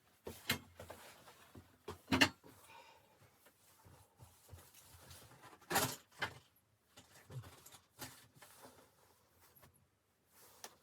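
Scattered knocks, clicks and rustles of things being handled, with two louder knocks about two seconds in and near the middle.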